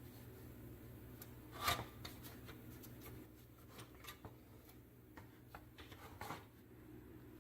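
Scattered light clicks and knocks of small hard parts being handled, the loudest about two seconds in and again near the end, over a faint steady hum.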